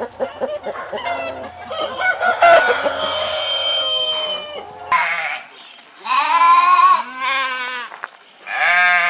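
Chickens clucking in quick short calls and a rooster crowing over a low hum. About five seconds in, the sound cuts to four bleating calls from small livestock.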